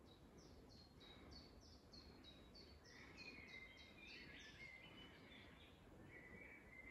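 Faint woodland birdsong: one bird repeats a quick series of about a dozen short, high, falling notes, roughly three a second, and lower warbling phrases from other birds follow over soft background noise.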